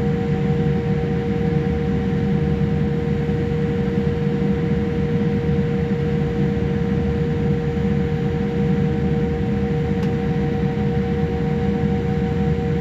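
Steady cabin noise inside a Boeing 787-8 airliner: a constant rush with a steady hum carrying two even tones underneath.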